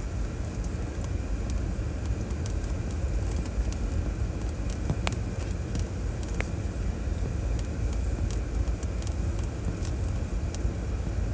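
2006 Chevrolet Trailblazer driving over a rough trail: a steady low engine and road rumble with scattered light clicks and knocks. Two sharper ticks come about halfway through.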